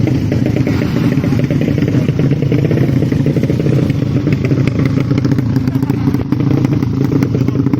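Modified Yamaha Jupiter underbone racing motorcycle engine running at a steady fast idle, its open exhaust giving a rapid, rough beat.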